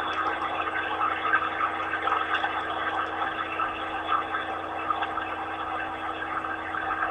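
Car wash air dryer blowers running, a steady rushing noise heard from inside the car's cabin.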